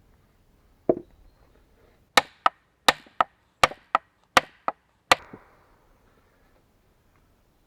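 Axe chopping wood: a single blow, then a run of nine quick, sharp chops about three a second, which stop after about five seconds.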